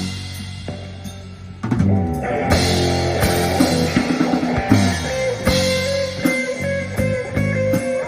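Live rock band playing: drum kit, electric guitar and bass guitar. A crash rings and fades over a quieter stretch at the start, then the full band comes back in loudly about a second and a half in.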